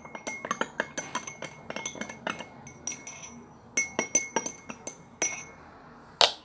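A spoon clinking against a container while stirring salt into liquid soap to make slime: quick repeated clinks that thin out after about four seconds, with one sharp clink near the end.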